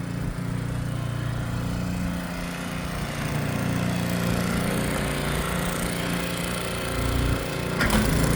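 Snowblower's small gasoline engine running steadily.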